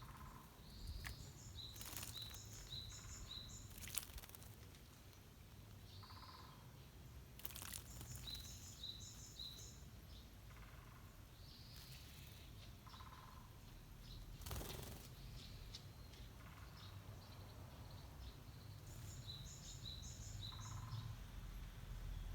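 A small songbird singing the same short phrase about every six seconds: one lower note, then four quick high notes. A few brief, sudden noisy sounds fall between the phrases.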